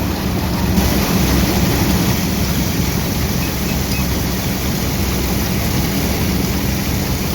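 Vintage harvest machinery running steadily, heard from aboard: a small Caterpillar crawler tractor's engine droning with a steady low hum under a constant rushing noise as it pulls through the wheat field.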